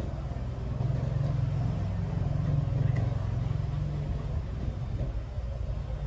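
A small engine running with a steady low rumble, getting a little louder about a second in.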